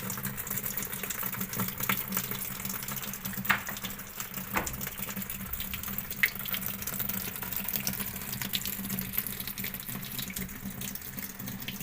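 Water running steadily into a washing machine through its freshly cleaned solenoid inlet valve, a strong flow, over a steady low hum. A few brief clicks come in the middle.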